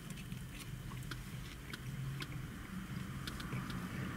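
A person chewing a mouthful of steak sandwich, with soft, irregular wet clicks and smacks of the mouth over a low steady hum.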